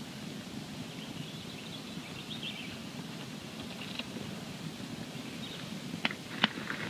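Wood campfire burning with a steady low rush, giving two sharp crackling pops about six seconds in.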